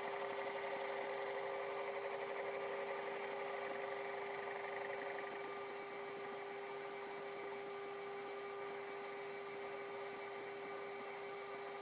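Metal lathe running with a steady hum while a CBN insert skims the face of a hardened steel diff yoke; the cutting noise eases off about five seconds in and the spindle hum carries on.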